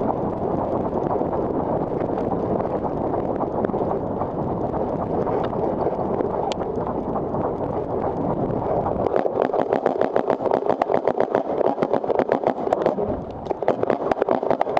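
A steady rushing noise, then from about nine seconds in a rapid string of sharp pops, several a second: paintball markers firing.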